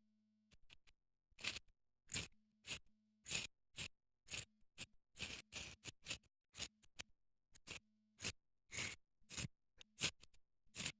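Fire-starting rod struck again and again to throw sparks onto tinder: short, bright rasping scrapes, about two a second and unevenly spaced.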